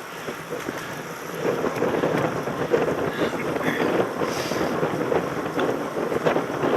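Wind buffeting a helmet-mounted camera's microphone over the rattle and rumble of a mountain bike riding over rough ground, with scattered clicks and knocks throughout.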